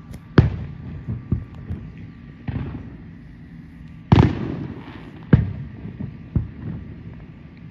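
Aerial fireworks shells bursting: a string of about eight booms, each trailing off in a rumble. The loudest come about half a second in and just after four seconds.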